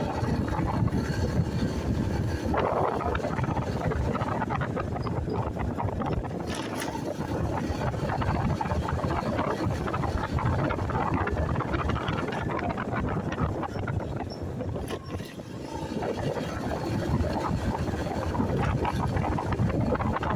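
Motorcycle riding noise: wind rushing over the microphone mixed with engine and road noise, steady apart from a short drop about fifteen seconds in.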